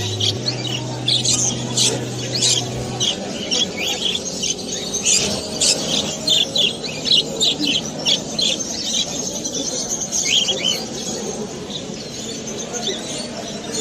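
Many caged small pet birds chirping and squawking at once, a dense chatter of short high calls. A low steady hum runs underneath for the first three seconds, then stops.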